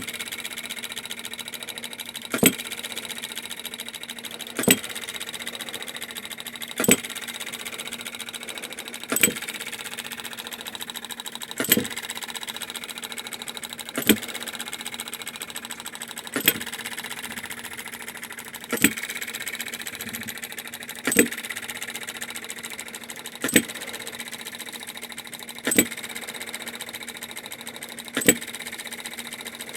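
A small machine hums steadily, with a sharp click about every two and a half seconds.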